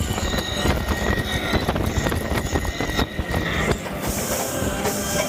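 Hagrid's motorbike roller coaster running fast along its track, rumbling and clattering. About four seconds in the low rumble drops away and a high hiss takes over.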